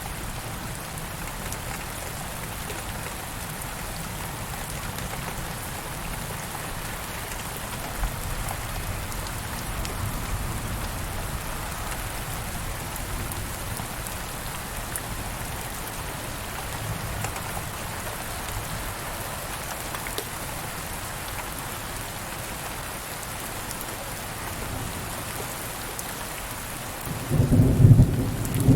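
Steady rain falling on a surface. Near the end a loud, deep roll of thunder breaks in.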